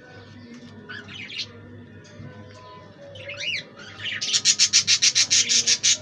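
Budgerigars chirping in short calls that sweep up and down in pitch. From about four seconds in, a loud rapid scraping starts, about six strokes a second, and drowns out the birds.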